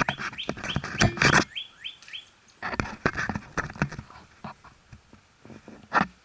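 Short rising bird chirps mixed with a series of loud, sharp clicks and knocks that come in clusters, with the loudest knock near the end.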